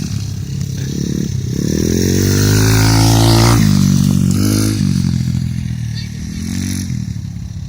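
Pit bike engines revving hard as the bikes race past. One rises in pitch and grows louder to a peak about three seconds in, then drops off sharply, followed by a shorter burst of revs.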